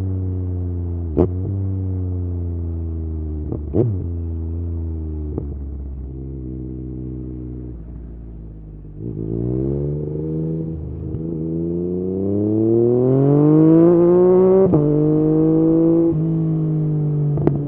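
Yamaha MT-09's three-cylinder engine through an Akrapovič exhaust, on the move. The engine note sinks slowly off the throttle with a few short sharp cracks, then about halfway through the throttle opens and the note climbs steadily, dipping briefly near the end at a gear change before holding steady.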